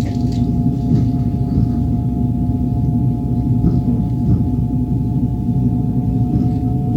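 Passenger train in motion heard from inside the carriage: a steady low rumble of wheels on rail with a sustained ringing tone over it.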